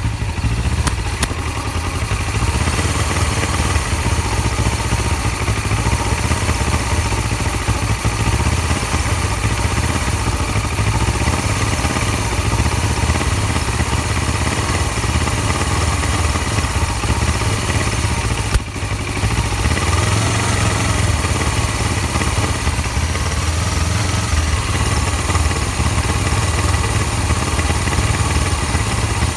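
2007 Suzuki GS500's parallel-twin engine idling steadily, with one brief dip and a click about two-thirds of the way through. The owner hears a weird "gasp" in this bike's running.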